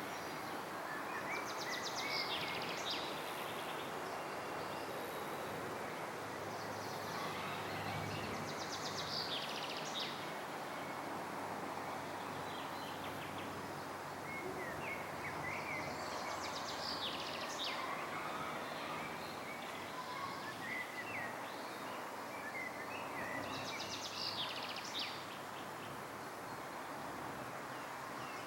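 A songbird repeating the same short song phrase four times, about every seven seconds: a few chirps and a fast trill. Under it runs a steady rushing outdoor background noise.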